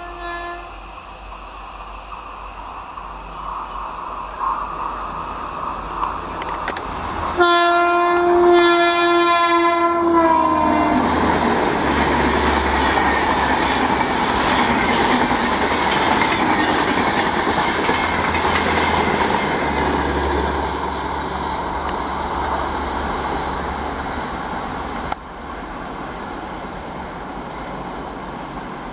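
Electric locomotive's air horn sounding one long note for about three seconds, dropping in pitch as it passes, followed by the loud rushing rumble and clickety-clack of the double-decker express coaches running past at speed, fading slowly. Near the end the sound cuts abruptly to a quieter, steadier train running sound.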